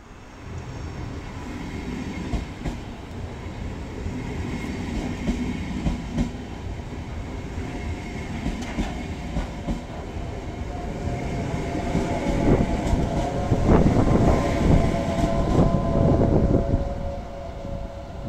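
A train running past, wheels clacking over the rail joints, growing louder to a peak about three-quarters of the way through. A steady whine joins in about midway.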